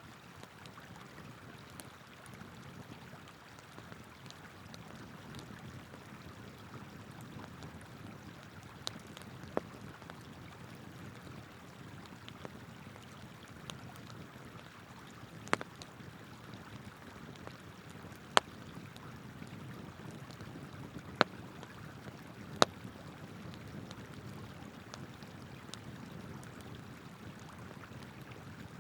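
Wood campfire crackling, with about half a dozen sharp pops spread through, the loudest in the second half, over the steady rush of a flowing river.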